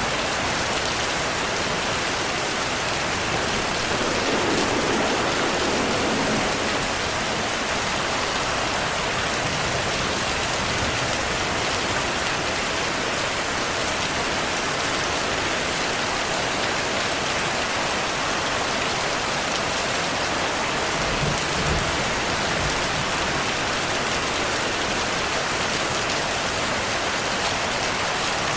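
Steady heavy rainfall, an even hiss of drops on surfaces. Low rumbles of thunder sit underneath, once a few seconds in and again past the middle.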